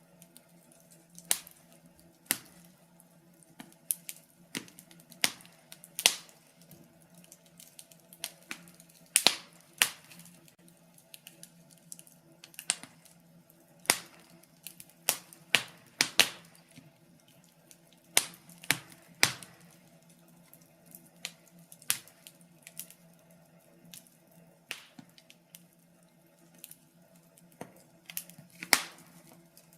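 Wood fire crackling: irregular sharp pops and snaps from burning firewood, some single and some in quick clusters, over a faint steady low hum.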